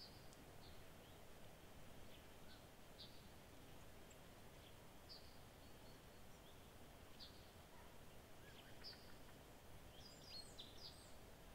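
Near silence: a faint, steady outdoor background with scattered short, high bird chirps every second or two, more of them in quick succession near the end.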